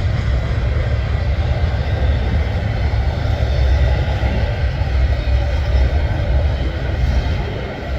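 Freight train cars rolling past with a loud, steady rumble of steel wheels on rail.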